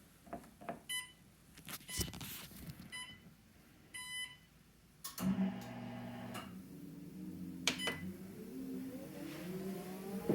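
Sole S77 treadmill console beeping several times, with a few clicks, then about five seconds in the drive motor starts with a steady hum and its whine rises in pitch near the end as the belt speeds up.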